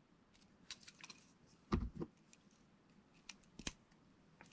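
Faint scattered clicks and knocks of Lego plastic pieces being handled and pressed together as the wheels are pushed onto the tractor, with a duller double knock about two seconds in.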